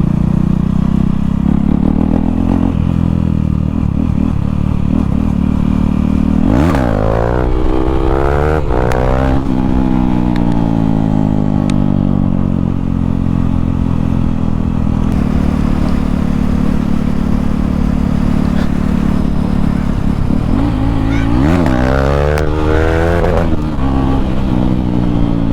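KTM Duke 390 single-cylinder engine running without a silencer, idling loudly and twice revved hard, the pitch rising and falling, about a quarter of the way in and again near the end.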